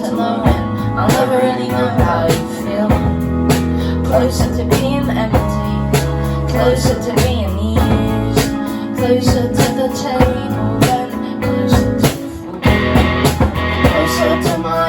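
Live rock band playing an instrumental stretch of a song: guitar over sustained low bass notes and a steady drum beat, with a brief drop about twelve seconds in.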